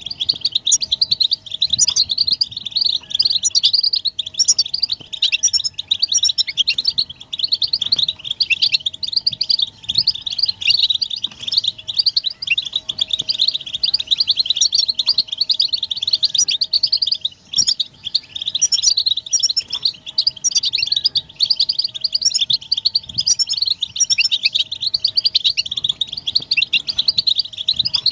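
A group of European goldfinches chattering together in a dense, unbroken stream of rapid high twittering chirps. These are the goldfinch's excited mating and readiness calls, the kind played to stir a silent male into song.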